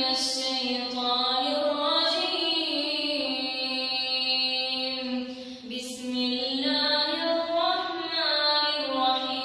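A girl reciting the Quran in Arabic in a melodic, chanted style, with long held and ornamented notes. She pauses briefly for breath about six seconds in.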